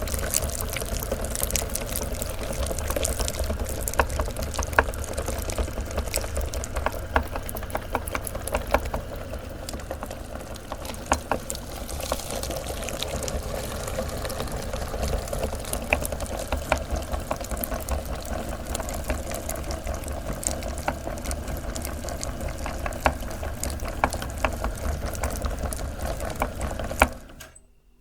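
Electric meat grinder running and crunching candy, a steady motor hum with many sharp cracks and clicks, switched off abruptly near the end.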